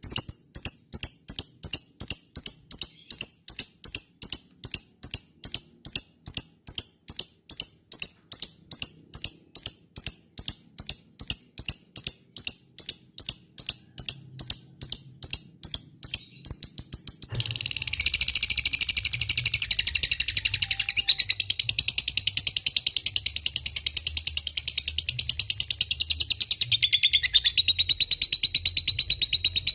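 Lovebird calling: sharp high chirps repeated evenly at about three a second. About 17 seconds in, these break into a fast, unbroken chattering trill, the long 'ngekek' song.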